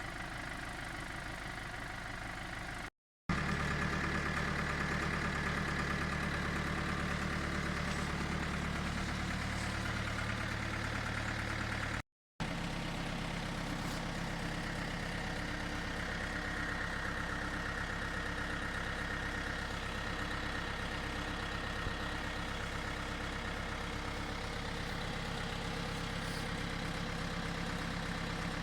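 An engine running steadily as it works a homemade potato harvester. The sound is broken by two brief cuts to silence, about three seconds in and about twelve seconds in.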